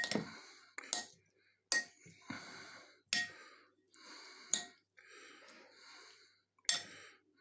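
Spoon mixing a wet chicken-and-bean filling in a bowl: about six sharp clinks of the spoon against the bowl, a second or so apart, with soft squelching between.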